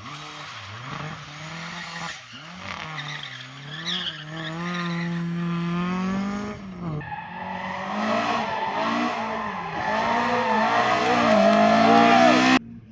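Rally car engine revving hard, its pitch climbing and dropping through gear changes, with tyre squeal. About seven seconds in it cuts to another rally car revving harder and louder, which stops abruptly near the end.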